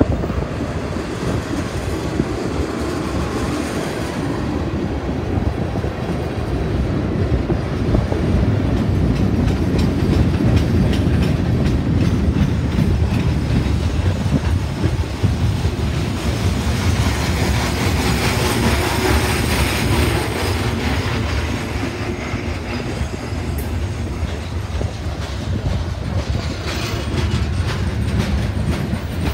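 Freight train of tank cars and covered hoppers rolling past: a steady rumble of steel wheels on rail, with rapid clicking as the wheels pass over the rail joints.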